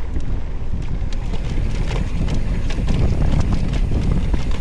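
Wind buffeting the microphone on a moving rider, with a steady jumble of rattles and small knocks from riding over a rough trail.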